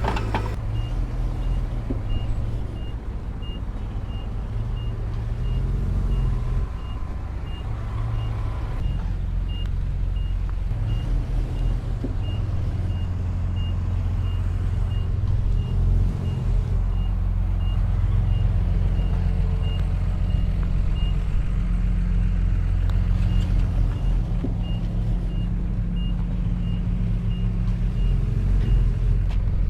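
Heavy diesel construction machinery running steadily, with a reversing alarm beeping evenly about three times every two seconds as a machine backs up.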